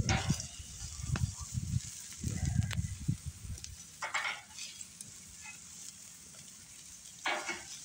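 Marinated pork sizzling over an open fire, a steady hiss. In the first few seconds, gusts of wind rumble on the microphone, and two short rustling bursts come about four seconds in and near the end.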